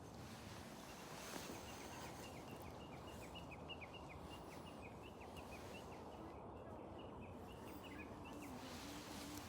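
An animal calling in a long run of short, high chirps, about four a second, over a steady outdoor hiss.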